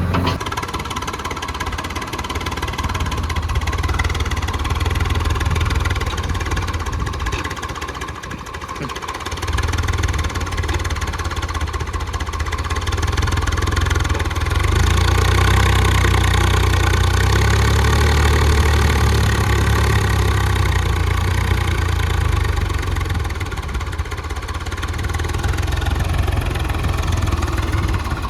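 JCB 3DX backhoe loader's diesel engine running steadily under working load. It dips briefly about a third of the way in and runs louder for several seconds in the middle.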